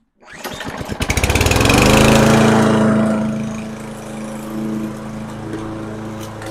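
Lawn-Boy self-propelled mower engine starting: it catches at once, runs up to speed within about two seconds, then settles into a steady run. The start shows that cleaning the carburetor cured the no-run fault.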